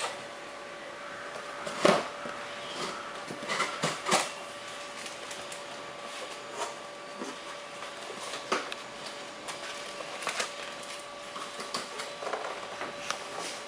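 A cardboard box being opened and handled: scattered knocks and rustles, the sharpest about two and four seconds in, over a faint steady hum.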